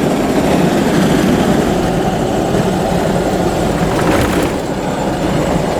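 Strong wind buffeting the microphone: a steady, loud rumbling noise.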